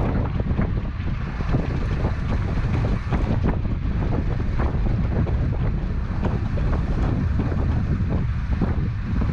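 Wind buffeting the microphone on the open deck of a fishing boat at sea: a loud, continuous low rumble with gusty flurries, over the wash of the sea.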